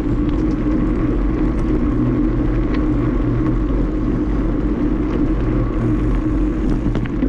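Steady rumble of wind buffeting the microphone and bicycle tyres rolling along a greenway while riding.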